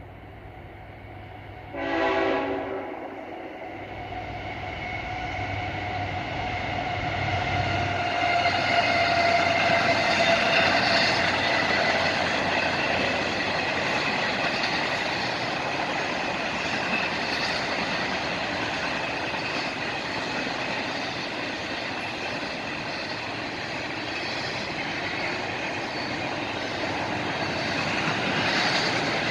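Freight train locomotive sounding one short horn blast about two seconds in, then the train rolling past with a steady rumble of wheels on rail that grows louder and stays loud.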